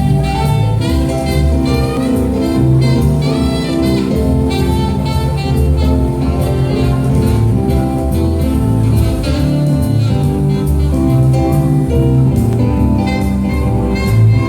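A band playing soft dinner music with a jazz feel, a melody line of sustained notes over a steady bass.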